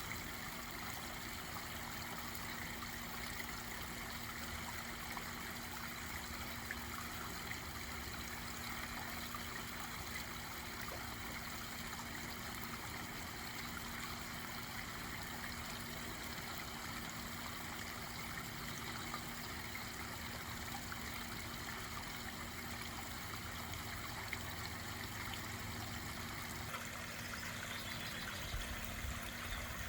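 Backyard pond waterfall: water splashing and trickling steadily over rocks, with a faint low hum underneath.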